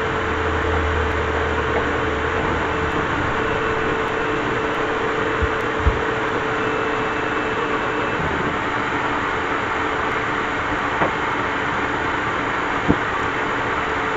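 Steady machine noise with a motor hum and a few small knocks, cutting off at the very end and dying away over a couple of seconds.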